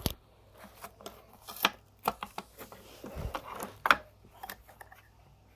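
Plastic Roomba brush rolls being handled and laid against each other for measuring: a scattering of light clicks and knocks, the loudest just after the start, about one and a half seconds in, and near four seconds.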